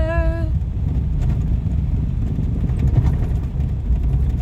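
Car driving over a rough dirt road, heard from inside the cabin: a steady low rumble of tyres and engine with small knocks from the bumps.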